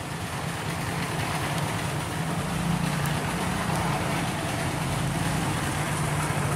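An engine idling steadily: a constant low hum over a wash of background noise.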